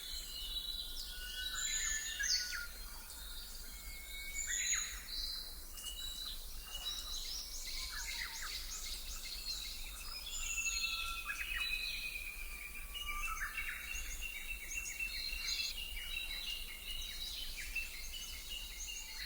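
Several songbirds singing and calling at once: overlapping chirps, trills and whistles with no pause, over a faint low hum.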